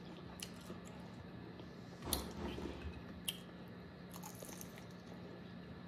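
Faint chewing and biting on a chicken wing, with a few small crunchy clicks; the loudest bite comes about two seconds in, over a low steady hum.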